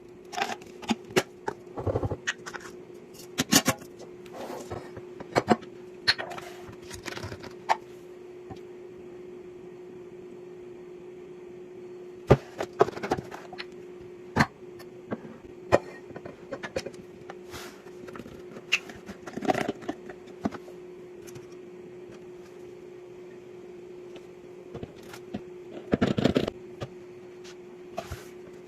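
Household items being handled and put in place: scattered clicks, taps and rustles of objects being set down and arranged, over a steady low hum.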